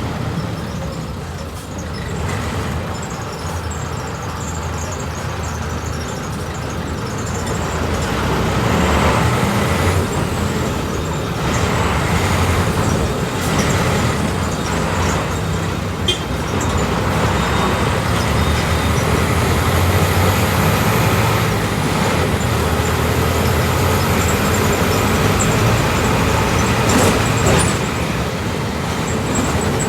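Volkswagen 17.230 OD city bus's diesel engine running under way, heard from inside the bus, getting louder about eight seconds in, with rattles from the body.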